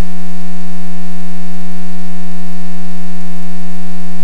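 Loud, perfectly steady electrical hum, a low buzzy tone with many even overtones, in the aircraft's headset and intercom audio feed.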